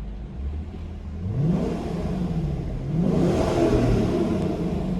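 Lexus LC500's naturally aspirated 5.0-litre V8 revved while standing still: it idles, then the throttle is blipped twice, the pitch climbing and falling back each time, the second rev longer and louder.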